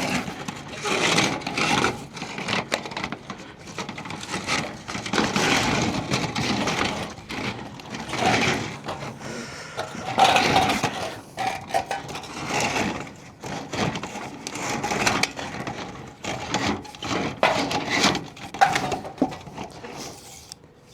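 A line being pushed through a wall opening, scraping and rubbing in irregular strokes as it hangs up on something.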